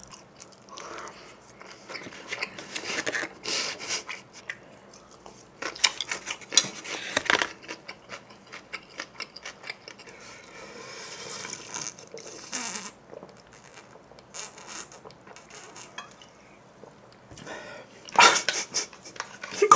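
Close-miked chewing and wet mouth sounds of a man eating cheese pizza: irregular smacks and clicks, with a louder burst near the end.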